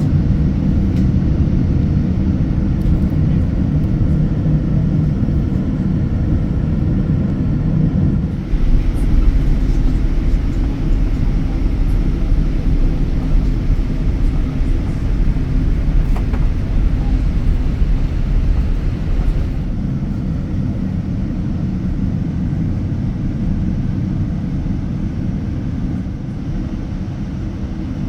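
Boeing 787-9 jet airliner noise heard inside the cabin: a steady low rumble of engines and airframe. It grows louder and rougher about eight seconds in and eases somewhat around twenty seconds in.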